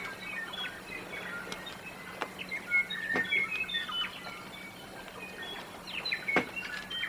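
Several birds chirping and calling in quick, overlapping short notes, with a few sharp clicks among them, the loudest near the end.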